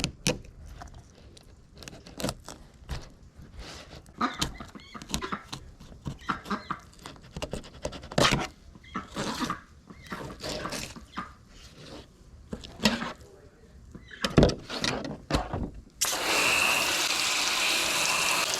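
Irregular knife clicks and scrapes against a cutting board as fish are filleted. Near the end a tap is turned on and water runs steadily.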